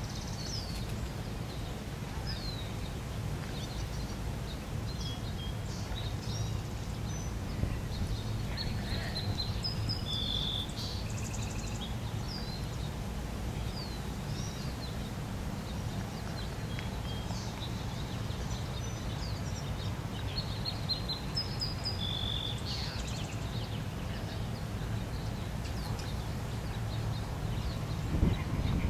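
Small birds chirping and singing in short high phrases, one phrase coming twice, over a steady low background rumble, with a brief knock near the end.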